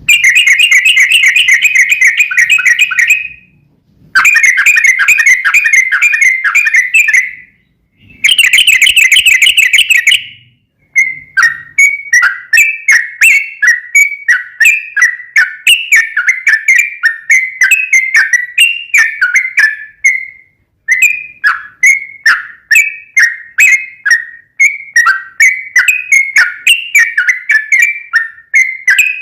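Yellow-vented bulbul (trucukan) singing: three rapid trilled phrases of about three seconds each, then a long run of quick separate chirping notes, two to three a second.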